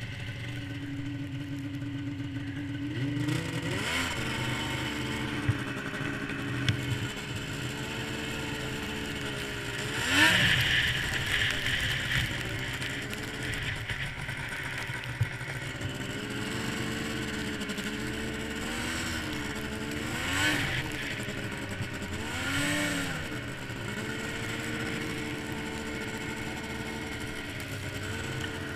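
A 1998 Yamaha SRX700 snowmobile's three-cylinder two-stroke engine running. It picks up revs about three seconds in, then holds a fairly steady pitch, with brief rises and falls in revs several times. The sound is heard through a waterproof camera housing.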